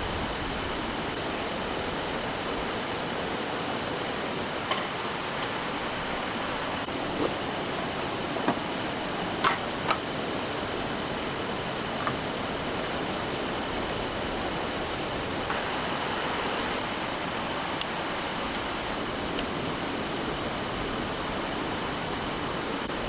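Rushing mountain stream running high and fast with monsoon rain: a steady, full rushing hiss. A few small sharp clicks or knocks are scattered through it.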